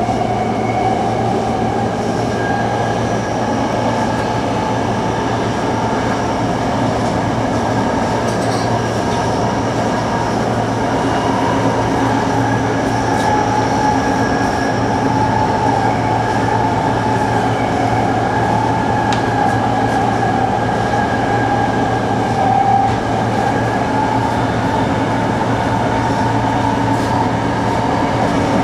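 Electric commuter train running steadily along the line, heard from inside the driver's cab: a continuous rolling rumble from the wheels and track, with a high motor whine that wavers slightly in pitch.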